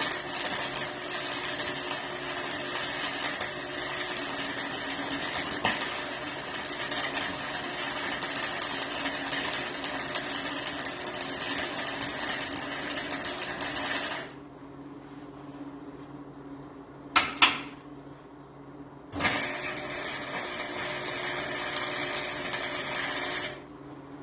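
Electric arc welding on steel: two long welds, the first about fourteen seconds and the second about four seconds near the end, each a steady, even noise. Two sharp clicks come in the pause between them.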